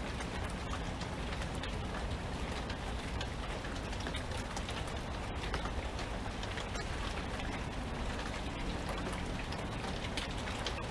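Steady rain falling, with many individual raindrops pattering close by over an even hiss.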